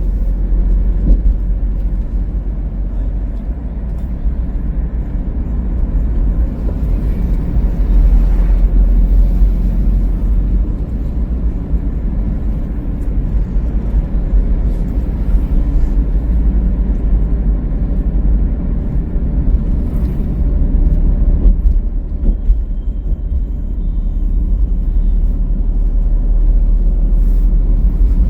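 Car driving along a highway: a steady low rumble of tyre and wind noise that swells and eases a little.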